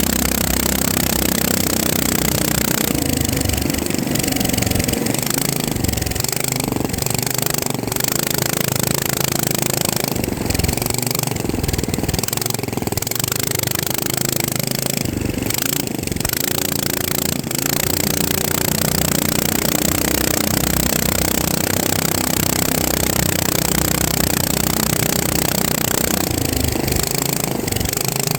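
FPV drone's electric motors and propellers whirring steadily, their pitch wavering up and down with the throttle, with a few brief dips.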